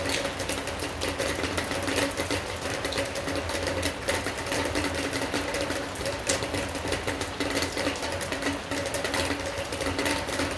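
Rain falling in a dense, steady patter of irregular drips and ticks, with a steady low hum underneath.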